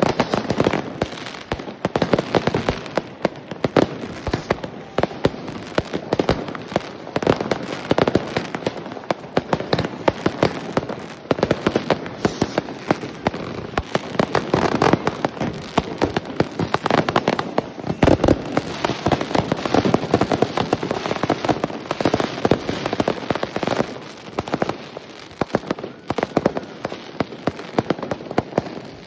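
Many fireworks and firecrackers going off without pause: a dense run of overlapping sharp bangs and crackles, some much louder than others.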